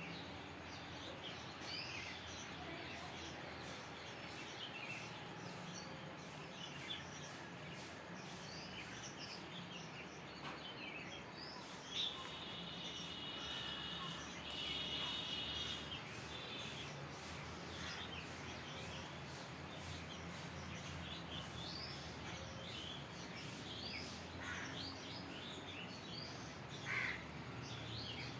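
Birds chirping and calling over a steady outdoor background noise, with many short chirps and one longer, buzzy call about twelve seconds in.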